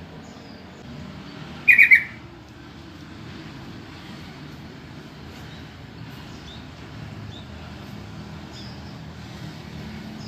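Yellow-vented bulbul giving a short, loud burst of call notes about two seconds in, and another right at the end, over a steady low background rumble.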